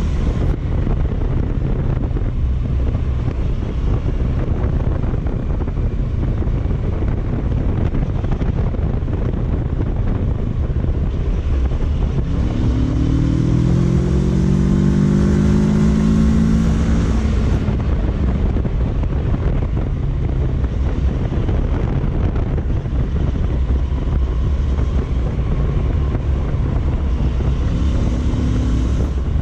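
Kawasaki Versys 650's parallel-twin engine running under way, with wind noise on the microphone. About twelve seconds in, the engine note rises and holds for several seconds, then drops away.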